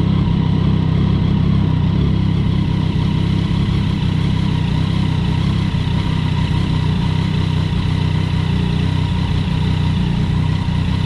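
2019 Yamaha MT-09's 847 cc inline-three engine idling steadily and loudly through a newly fitted aftermarket full exhaust system, a copy of the Akrapovič carbon system.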